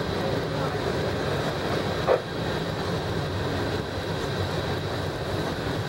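Freight cars of a manifest train rolling past at steady speed, a continuous rumble of steel wheels on the rails, with one sharp knock about two seconds in.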